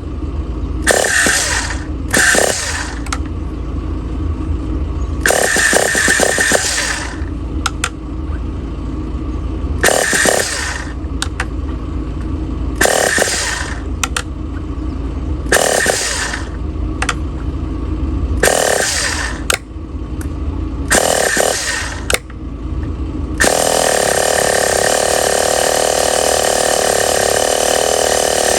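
Enya .15CX two-stroke glow engine being started on a test bench. It goes in a string of short bursts of one to two seconds, a few seconds apart, then runs steadily for about five seconds near the end before cutting off suddenly.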